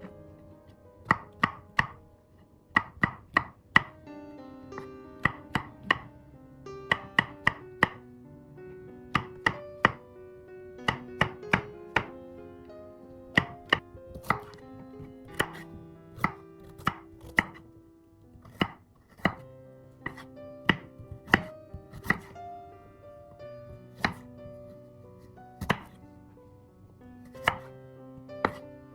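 Knife chopping on a cutting board, sharp cuts coming in short irregular runs of two to four strokes with brief pauses between.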